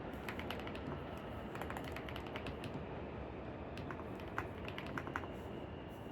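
Computer keyboard typing in three short runs of keystrokes, over a steady low ambient noise.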